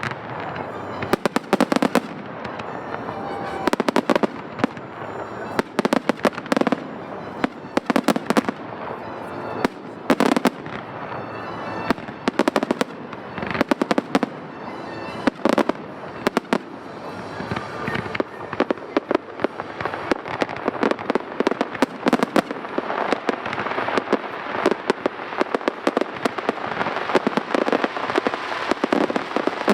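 Aerial fireworks shells bursting overhead, sharp booms every second or so, thickening in the second half into near-continuous bangs and crackle.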